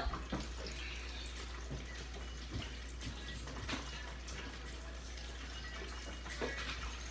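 Floured chicken pieces sizzling in the oil of a deep fryer, a steady even frying hiss, with a few faint knocks.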